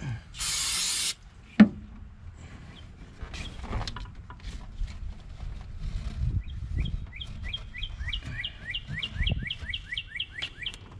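A bird singing a fast, even series of short repeated chirps, about four a second, through the second half. Before it comes a hiss about a second long and then a single sharp clink, the loudest sound, with faint clatter of handling between.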